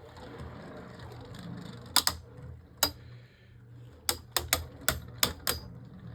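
Two Beyblade Burst spinning tops, Harmony Pegasus and Venom Devilos, whirring in a plastic stadium, with sharp plastic clacks as they strike. There are two single clacks, then a quick run of about six in the last two seconds.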